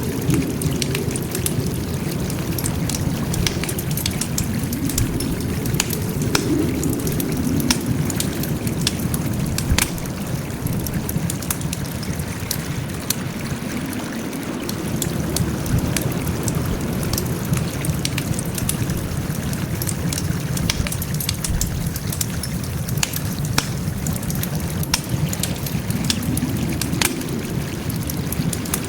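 Wood fire burning, with frequent sharp, irregular crackles and pops over a steady low rumble.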